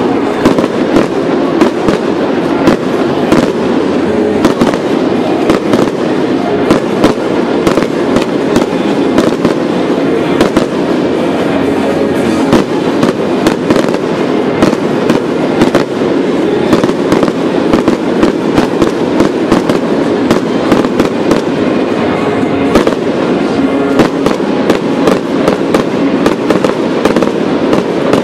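A fireworks display: a rapid, unbroken run of bangs, pops and crackles, several a second, over a steady background din.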